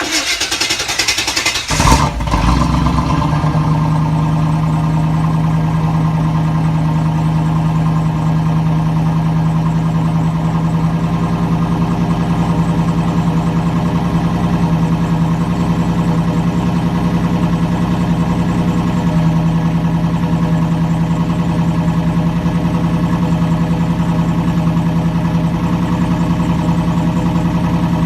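Chevrolet 350 V8 in a 1991 Camaro, running straight through a Flowmaster 40 Series muffler with no catalytic converters, started up: about two seconds of rough cranking, a catch, then a steady, loud idle.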